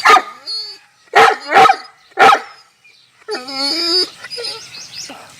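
A bully kutta dog barking four times in quick succession, then giving one drawn-out, wavering whine.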